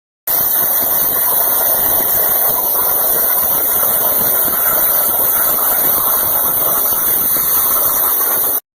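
Skid steer engine running steadily and loudly; it cuts off abruptly just before the end.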